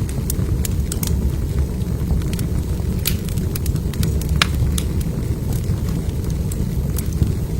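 Wood fire crackling in a fireplace: a steady low rumble of burning logs with irregular sharp pops and snaps, the loudest about four and a half seconds in.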